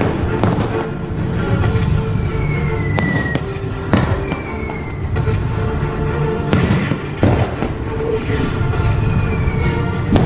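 Aerial fireworks bursting over the sea, a sharp bang every second or two, with music playing throughout.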